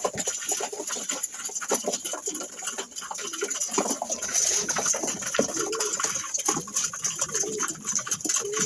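Homing pigeons cooing in their loft, several low coos in the second half, over many short clicks and knocks.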